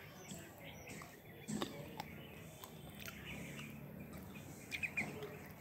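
Small birds chirping faintly and intermittently, with a few sharp clicks and a steady background hum.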